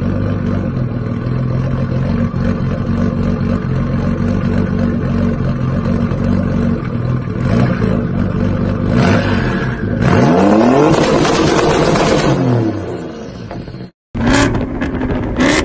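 A car engine idles with a steady rumble, then is revved once about nine seconds in, its pitch rising and falling back over about three seconds. After a brief cut to silence near the end, another engine sound follows with sharp cracks.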